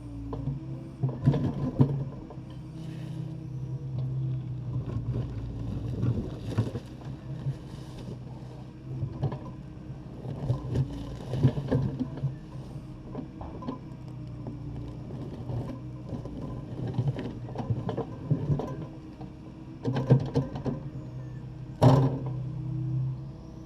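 Takeuchi TB260 excavator's diesel engine running steadily under load, with irregular clanks and knocks of the bucket working broken concrete and rubble, and one loud bang about 22 seconds in.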